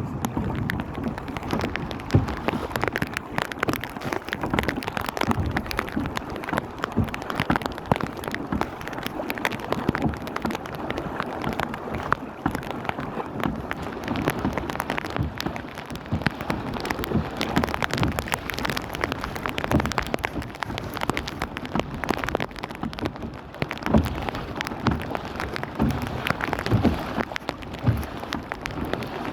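Steady rain falling, with many individual drops striking close by as sharp taps over a continuous hiss.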